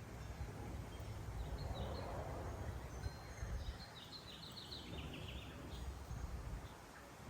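Small songbirds calling: a few short chirps, then a quick run of about a dozen short high notes that step down in pitch a little past halfway. A steady low rumble runs underneath.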